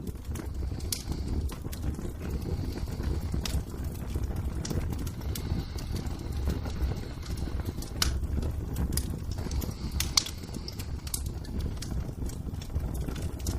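Wood fire crackling in a fireplace: scattered, irregular sharp pops over a steady low rumble of the burning fire.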